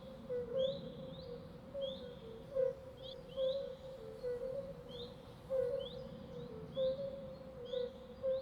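Birds chirping in a natural soundscape: short, quick rising chirps repeated about once or twice a second, over a steady lower continuous note and a faint background rush.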